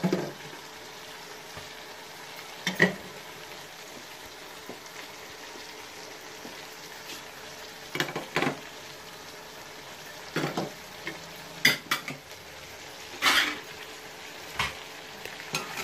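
Chicken, tomato and spices frying in an aluminium pot, a steady sizzle. A metal spatula scrapes and clinks against the pot every few seconds; these are the loudest sounds.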